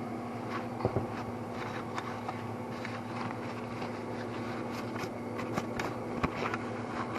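Light clicks and taps of engine parts and tools being handled on a workbench, over a steady electrical hum, with two sharper knocks about a second in and near the end.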